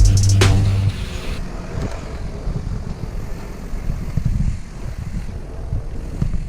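Background music with a drum hit, stopping about a second in, followed by steady rumbling wind noise on the microphone and the rolling of a mountain bike riding along a dirt trail.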